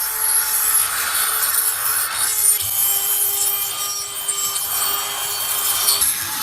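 Continuous abrasive rubbing on metal: rusty parts of a vintage manual meat grinder being worked with an abrasive to clean off corrosion.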